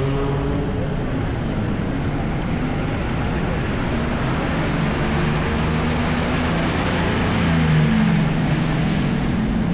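Busy city street traffic: vehicle engines running and passing in a steady rush of noise, with one engine note swelling louder about eight seconds in.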